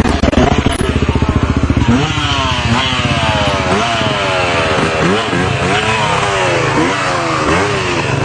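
Enduro motorcycle engine with a low pulsing rumble at first. From about two seconds in it revs up and drops back again and again, roughly once a second, as the rider works the throttle.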